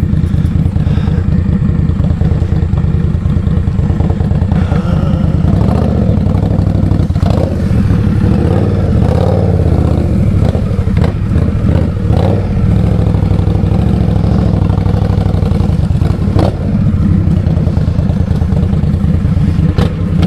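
2020 Indian Scout Bobber Twenty's V-twin engine running steadily on the move, a dense low rumble, with a few short knocks or rattles about halfway and two-thirds of the way in.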